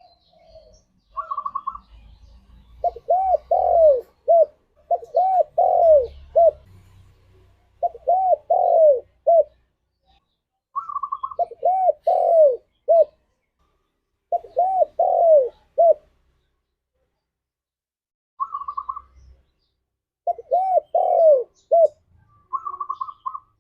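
Spotted dove cooing its song over and over. Each phrase is two or three arched, falling coos ending in a short note, and some phrases open with a brief higher note. About six phrases come with short silent gaps between them.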